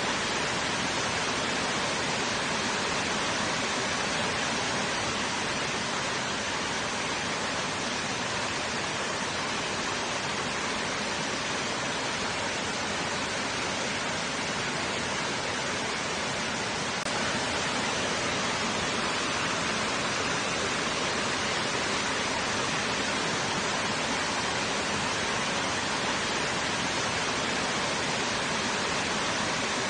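Water washing against rocks, a steady unbroken rush with no single waves or splashes standing out.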